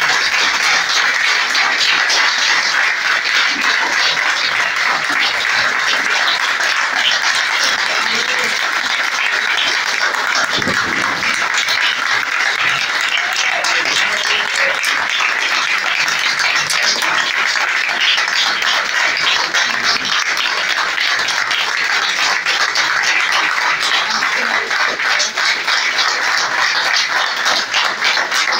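Audience applauding: many people clapping in a dense, even patter.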